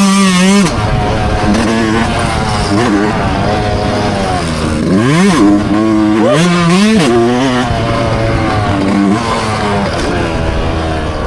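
Dirt bike engine running hard, its pitch climbing and dropping back sharply a few times about five seconds in and again around seven seconds as it revs and shifts, holding steady between.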